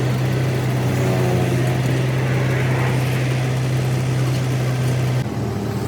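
A steady mechanical drone with a constant low hum and noise over it, cutting off suddenly about five seconds in.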